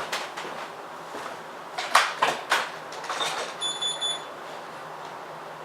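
A few sharp knocks and clatter, then a single high electronic beep lasting about half a second.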